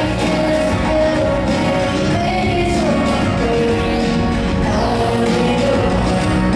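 Live electronic pop music played loud through a venue's sound system: a woman singing in long, gliding notes over sustained synth chords and heavy bass.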